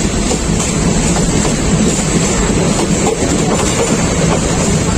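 Bangladeshi intercity passenger train, the Jayantika Express, running on the track: a steady loud rumble of wheels and coach, with faint clicks from the rail joints.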